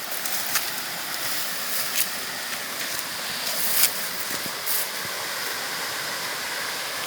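Steady rush of flowing river water, with a few brief louder spikes.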